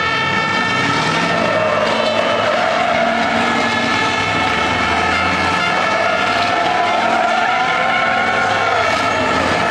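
Racing trucks' diesel engines running hard, several at once, with steady engine tones and slow pitch rises and falls as they accelerate and pass.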